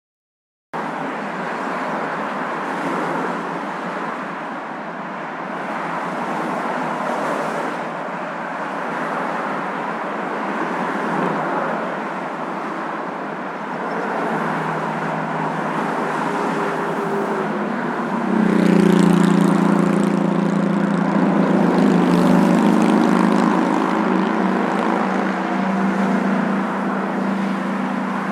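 Recorded noise of a moving car: a steady rumble and hiss that starts abruptly about a second in after a moment of silence. About two-thirds of the way through, a louder, steady engine hum with several held tones joins in and carries on to the end.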